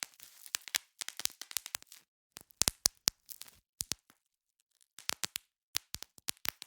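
Bubble wrap being popped: irregular clusters of sharp pops with plastic crinkling between them, and a pause of about a second near the middle.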